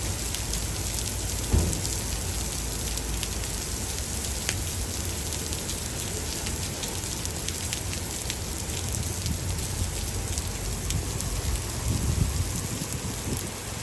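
Steady rain falling and pattering on surfaces in a thunderstorm, full of fine drop clicks. There is a single sharp thump about a second and a half in, and a low rumble of thunder swells near the end.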